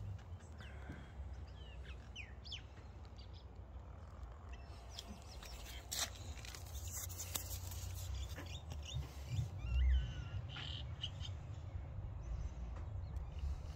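Birds calling outdoors, scattered short chirps and whistled calls. Under them runs a steady low rumble, with a dull low thump about two-thirds of the way through.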